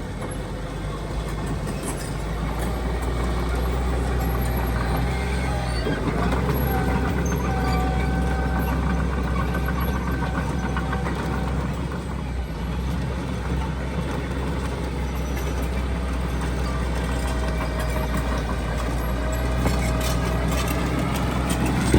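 Diesel engine of heavy earthmoving equipment running steadily, with a faint higher whine that wavers in pitch through the middle.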